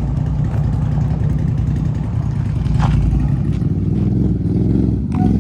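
A vehicle engine running with a steady low rumble, with one brief higher sound about three seconds in.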